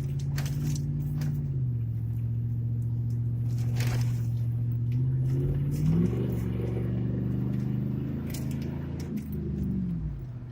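Pickup truck engine heard from inside the cab while driving, running steadily; its pitch drops about a second and a half in, climbs again around six seconds as it speeds up, and falls off near the end.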